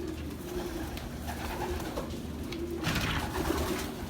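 Racing pigeons cooing in the loft, low drawn-out coos repeating, with a brief rustle about three seconds in.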